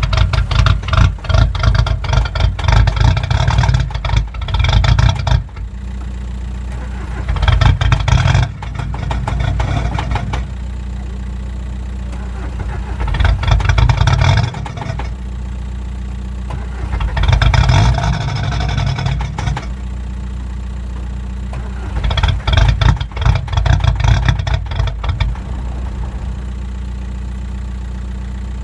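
Cold diesel car engine idling steadily and revved about five times in short bursts of a few seconds, dropping back to idle between each.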